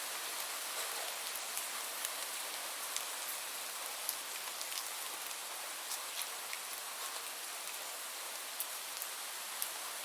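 Steady rain falling on a surface: an even hiss with many separate drops ticking through it.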